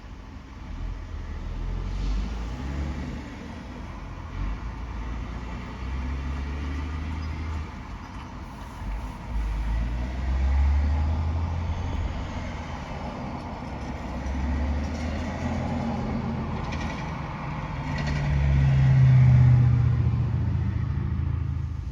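Heavy trucks driving past with their engines running, a low rumble that rises and falls as each one goes by. The loudest pass comes about nineteen seconds in.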